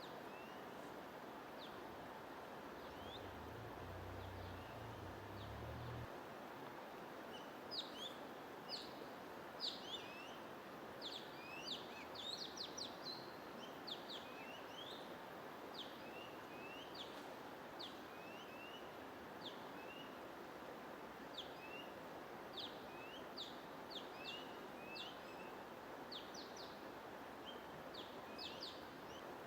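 Small songbirds chirping with many quick, high, short notes over a steady hiss of white noise. The chirps are sparse at first and come thick and fast from about seven seconds in. A brief low hum sounds a few seconds in.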